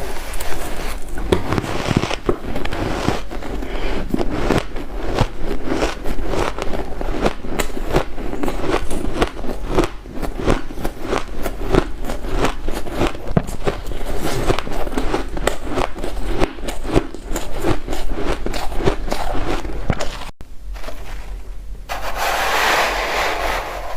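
White ice being chewed, with dense, rapid crunching and cracking. About twenty seconds in there is a brief cut, and after it a softer, even rushing noise.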